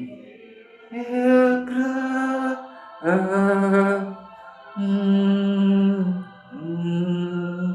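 A voice singing or chanting slowly in four long held notes, each about a second or more, with short breaks between them. The second and fourth notes slide up into pitch at their start, and the notes step gradually lower.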